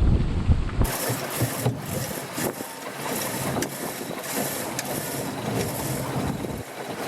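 Wind rumbling on the microphone aboard a sailboat in gusty wind, cutting off under a second in to a steady hiss of wind and water with scattered sharp taps.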